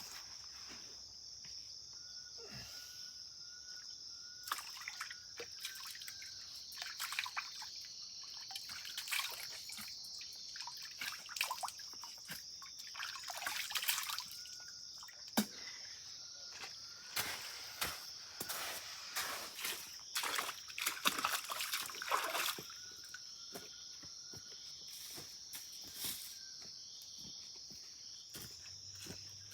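Amazon rainforest ambience: a steady high-pitched insect drone, with a short repeated high call coming in now and then. Irregular water sloshing, trickling and dripping sounds are busiest through the middle.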